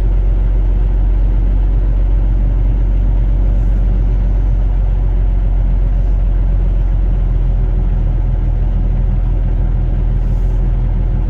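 Semi truck's diesel engine running steadily, a low, even drone.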